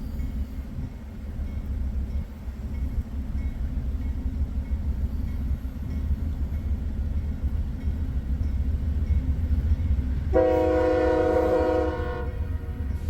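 Freight train's diesel locomotives rumbling low and steady. About ten seconds in, a locomotive air horn sounds one chord, held for about two seconds.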